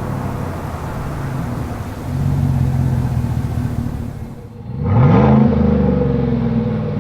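Exhaust of a 2014–19 GM Silverado/Sierra 1500 5.3L V8 fitted with a Flowmaster Outlaw Extreme cat-back system, running steadily and getting louder about two seconds in. Near the end the engine revs up quickly, rising in pitch, then holds.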